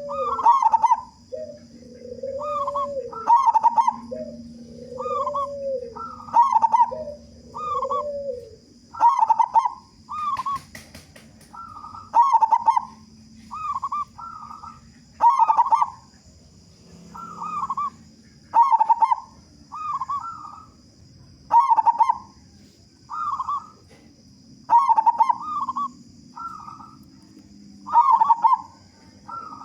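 Zebra doves (perkutut) cooing in short, repeated phrases about every second and a half, with a lower-pitched cooing in among them for the first eight seconds. A faint, steady high whine runs underneath.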